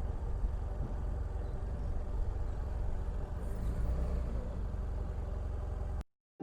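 BMW F800GS parallel-twin engine running at road speed with wind rush. It cuts off suddenly about six seconds in.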